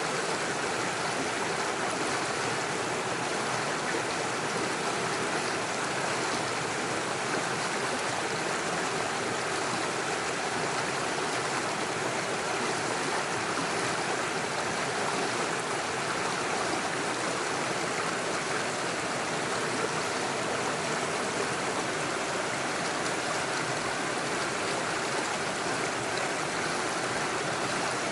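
Small rocky forest stream rushing over stones and little waterfalls: a steady, even rush of water.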